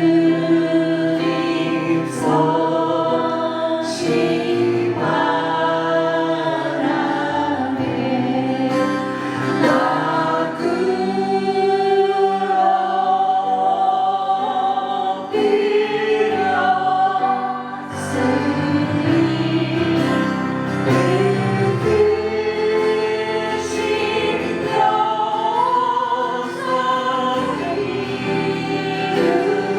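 Group of voices singing a Christian worship song in chorus, with instrumental accompaniment.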